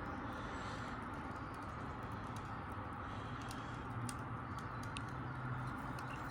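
Wood campfire crackling, with scattered sharp pops and ticks over a steady background hiss and a low hum.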